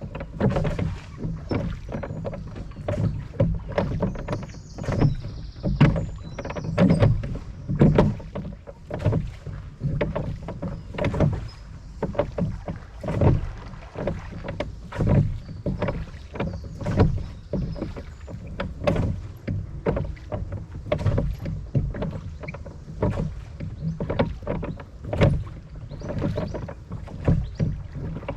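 Oars of a rowing boat dipping and splashing in river water, a short splash every second or two, over a low rumble of wind on the microphone.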